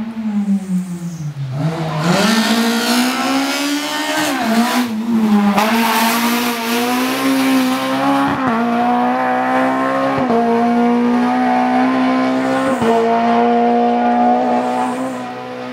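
Race car engine at full throttle: its pitch drops early on, then climbs hard through the gears, with quick shift breaks about four times.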